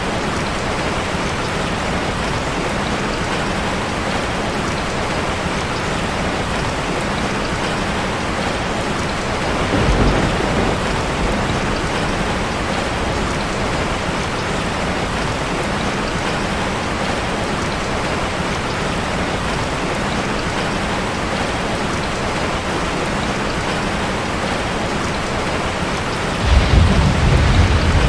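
Steady rain drumming on a metal roof. A brief low rumble comes about ten seconds in, and a louder, longer low rumble starts near the end.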